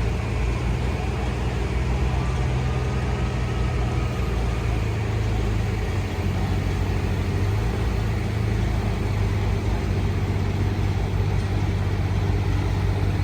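Large engine running steadily at idle, a constant low hum.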